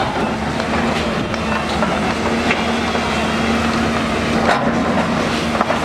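A steady engine running with a constant hum and low rumble, with scattered clicks and knocks over it.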